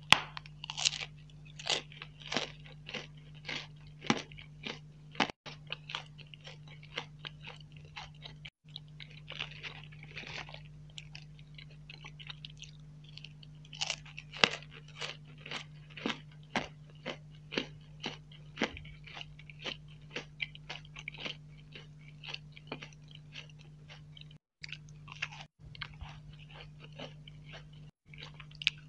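Close-miked chewing of sweets: a steady run of sharp, crisp crunches and wet mouth clicks, two or three a second, over a faint steady low hum.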